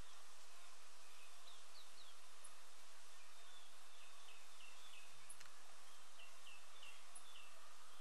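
Outdoor field ambience: a steady hiss with a small bird chirping repeatedly in short, high, falling notes, coming two or three a second from about halfway on. A single brief click a little after five seconds in.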